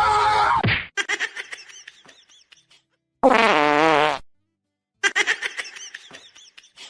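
A fart sound effect: one loud, buzzy, wavering blast about a second long, sinking slightly in pitch, between two stretches of quick high chirping squeaks. A louder sound drops in pitch and cuts off in the first second.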